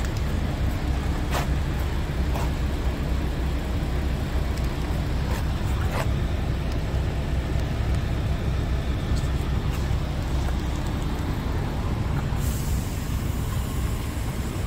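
The 13-litre straight-six diesel of a Scania R450 tractor unit idling steadily, with no revving, and a few faint clicks over it.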